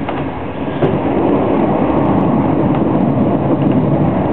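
Running noise of an SBB Intercity train at speed, heard from inside the coach: a steady rumble of the wheels on the rails that gets a little louder about a second in, with a faint click.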